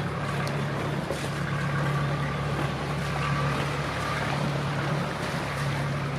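A motor boat's engine running with a steady low hum.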